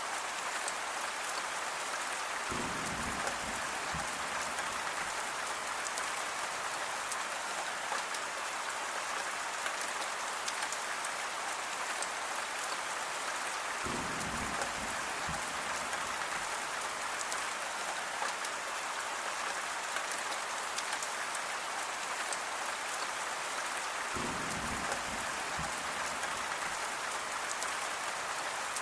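Steady rain falling, a constant hiss with fine pattering drops. Three brief low rumbles come about ten seconds apart: near the start, midway and near the end.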